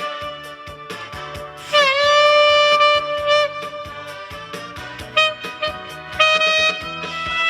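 Saxophone playing a slow melody over a backing track with a steady beat. About two seconds in, it bends down into a long held note.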